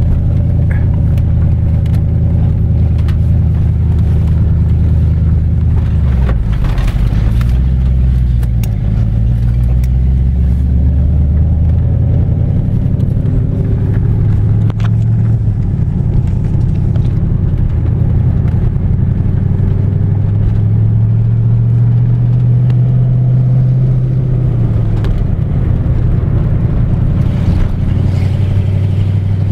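1989 Ford Mustang GT's 5.0-litre V8 running, heard from inside the cabin. The engine note shifts up and down with the throttle several times, rising about twenty seconds in and dropping back a few seconds later.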